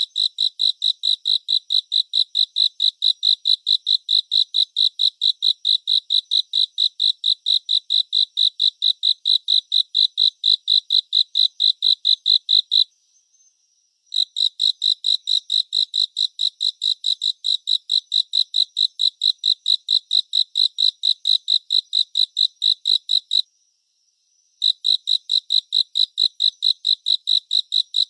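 Cricket chirping in a steady, even rhythm of high chirps, about four a second, stopping twice for about a second before starting again.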